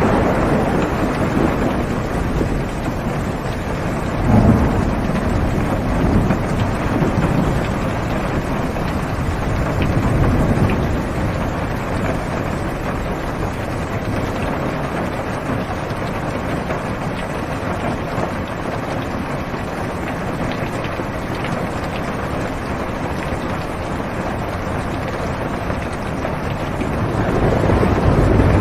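Steady rain heard from inside a car, with low rolls of thunder swelling up a few times: about four seconds in, around ten seconds, and near the end.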